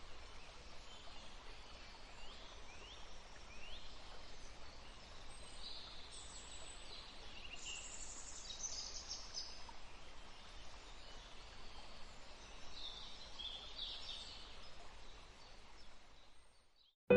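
Birds chirping and calling, many short notes and quick downward-sweeping calls, over a steady hiss of light breeze; the sound fades out just before the end.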